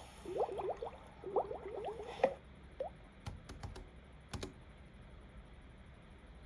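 Short rising squeaks in quick runs for the first two seconds, then a few separate computer keyboard clicks, about four, before the room goes quiet.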